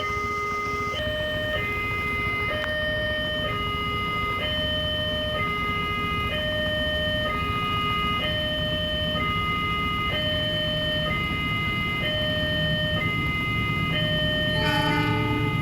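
Electronic two-tone warning alarm of a railway level crossing, switching between a low and a high tone about once a second, sounding as a train approaches. Near the end a low rumble builds and a brief burst of other tones cuts in.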